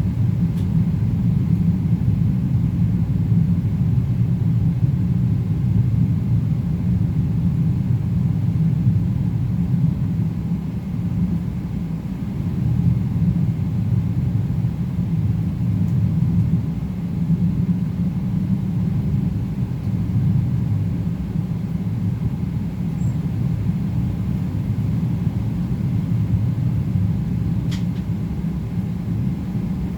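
Steady low rumble inside the cabin of a Boeing 777-300ER, from its GE90 engines and the airflow around the front of the aircraft. A faint click near the end.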